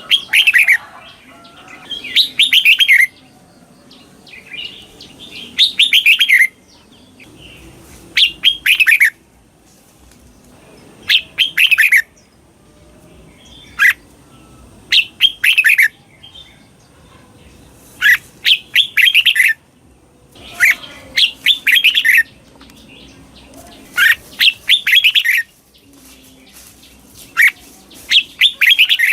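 Red-whiskered bulbul singing loud short phrases of quick down-slurred whistled notes, a phrase every one to three seconds, many repeated twice in quick succession: the doubled song used to train caged bulbuls.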